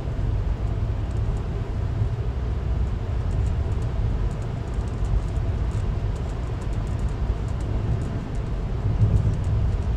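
Steady low rumble of a moving passenger train heard from on board, with faint scattered clicks.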